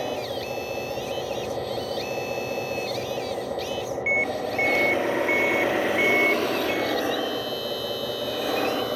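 Heavy equipment's diesel engine running steadily, with a reversing alarm beeping about five times in the middle of the stretch, spaced a little under a second apart.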